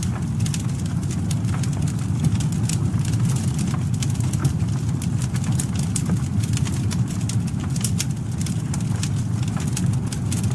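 Campfire burning: a steady low rumble of flames with frequent irregular sharp crackles and pops from the burning wood.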